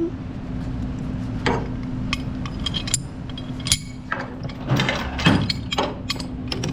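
Load-securing chains and binder hardware clinking and clicking irregularly as they are handled, over a steady low hum.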